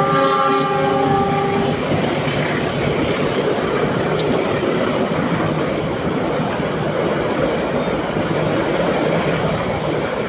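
Multi-tone train horn chord held into the first couple of seconds, then cutting off. It is followed by the steady rushing rumble and wheel clatter of a train passing close by.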